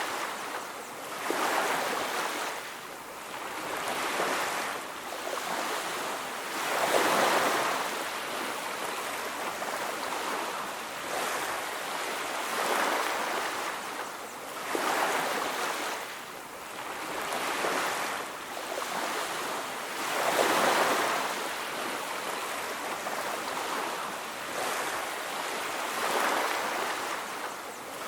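Sea waves breaking and washing up a beach. Each wave swells and fades every two or three seconds, and a few break louder than the rest.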